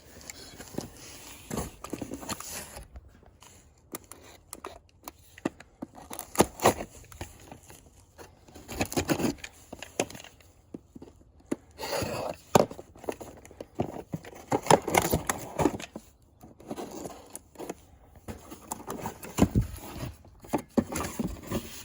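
Packaging being handled as new brake parts are unboxed: rustling and crinkling wrapping with irregular light knocks and clicks.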